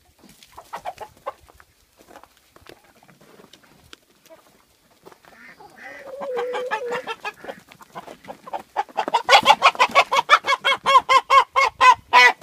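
Chicken squawking in alarm while being chased to be caught. There is a drawn-out call about six seconds in, then from about nine seconds on a loud, rapid run of squawks, several a second.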